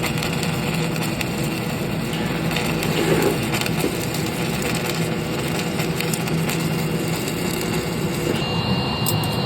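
A steady low hum with an irregular crackling, crunching noise over it.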